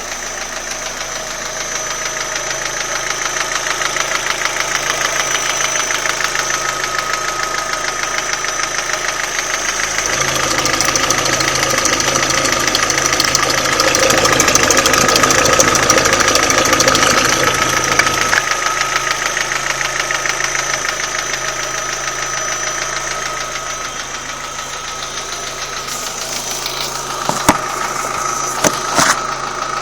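Opel Astra G engine running with a fast, even knocking that the owner cannot identify. It runs louder for several seconds in the middle, then settles back, and a few sharp clicks come near the end.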